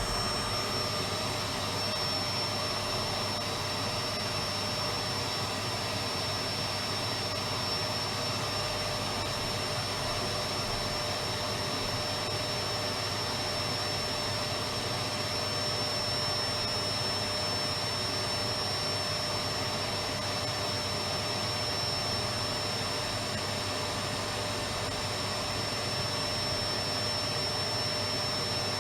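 Electric vacuum cleaner running steadily: an even rushing motor noise with a steady high whine over it, unchanging throughout.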